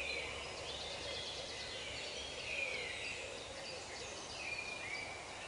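Outdoor ambience with birds calling: short whistles that slide down in pitch, repeated every second or so, and a quick high trill about a second in, over a steady low hum.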